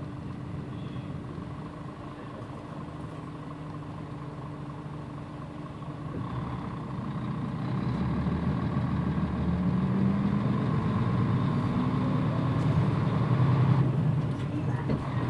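Mitsubishi PJ-MP35JM bus's diesel engine running quietly at idle, then from about six seconds in growing louder as the bus pulls away and accelerates. The engine note drops briefly near the end.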